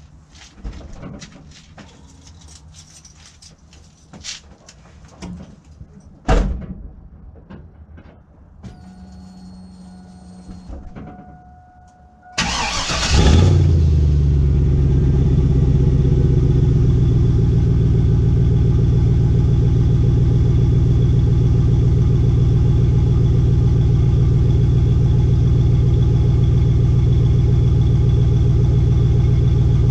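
Pickup truck cold start: a few clicks and a sharp thump, a steady electronic tone for about three seconds, then a short crank. The engine catches about 13 seconds in, revs up briefly, and settles into a loud, steady cold idle.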